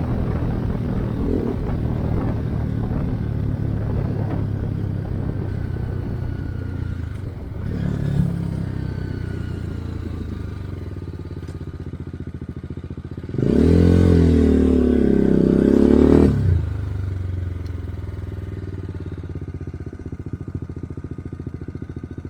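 BMW G310GS single-cylinder engine running through an Akrapovic exhaust with the silencer insert removed. A short throttle blip comes about a third of the way in, and a louder rev lasting about three seconds past the middle, after which the engine drops back to a lower, steady note.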